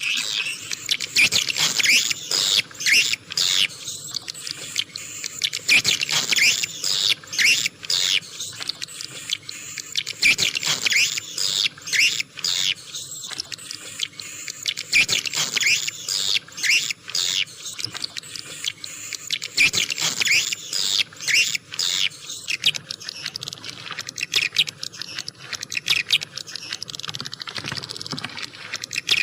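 A flock of swiftlets twittering and chittering: many high, quick calls overlapping, with sharp clicks and short falling chirps. It is a swiftlet lure call of the kind played at a bird house to draw swiftlets in to roost and nest.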